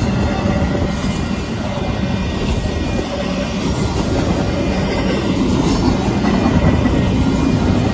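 Double-stack intermodal freight train's container cars passing close by on the rails: a steady, unbroken noise of steel wheels rolling on the track.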